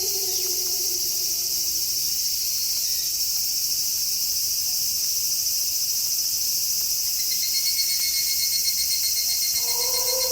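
Crickets and other night insects chirping steadily, with a pulsing cricket trill joining about seven seconds in. Over them, the tail of a wolf's howl slides down in pitch and fades in the first two seconds, and a new long howl begins near the end.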